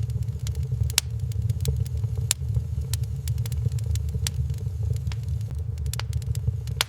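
Wood fire crackling in a fireplace: irregular sharp pops and snaps, a few louder ones about a second in, just after two seconds and near the end, over a steady low rumble.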